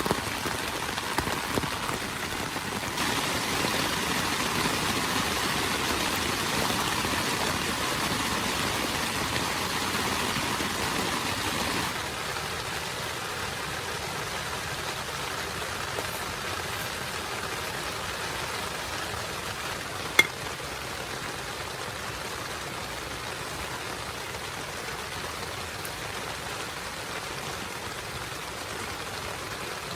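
Steady hiss of heavy rain, heavier for the first several seconds and then dropping to a lighter, even patter about twelve seconds in. A single sharp click about twenty seconds in.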